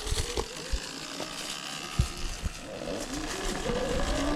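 Sur-Ron Ultra Bee electric dirt bike pulling away: the motor's whine wavers up and down in pitch, then climbs steadily near the end as it accelerates, over wind rumble with a few low thumps.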